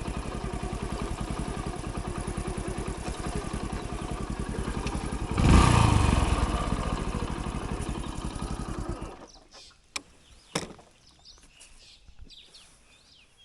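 Hero Splendor's single-cylinder four-stroke engine running with steady, even pulses. It gets suddenly louder about halfway, then stops about nine seconds in, followed by a couple of sharp clicks.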